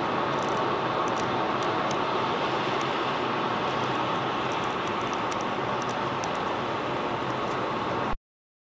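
Steady vehicle and road noise on a snowy highway, a continuous rushing hiss, that cuts off abruptly to silence near the end.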